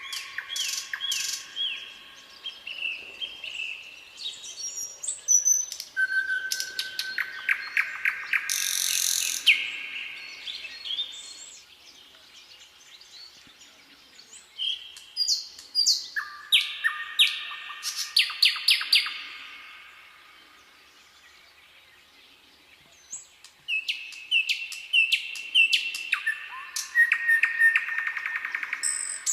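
Songbirds singing in bouts of rapid chirps and trills, with quieter pauses of a few seconds between phrases.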